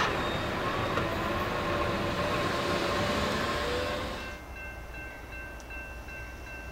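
The rumble and rail noise of a train that has just passed through a grade crossing, with wavering tones over a broad noise. About four seconds in it cuts off abruptly to a much quieter scene, where faint steady high tones come from a distant approaching train's horn.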